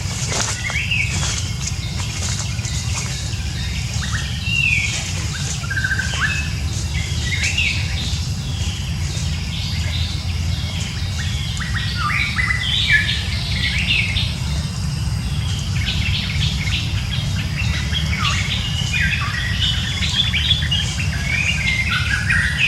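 Small birds chirping and calling in many short, repeated notes over a steady low background rumble.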